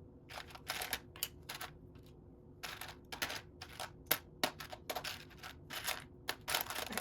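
Plastic Lego bricks clicking and clattering as they are handled and sorted, with about a dozen irregular sharp clicks and short rattles.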